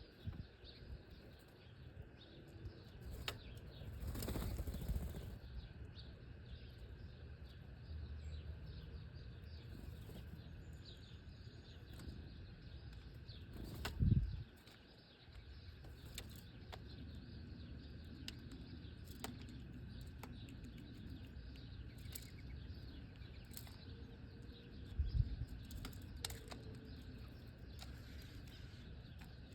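Birds' wings flapping in a few brief flurries, about four seconds in, near the middle and near the end.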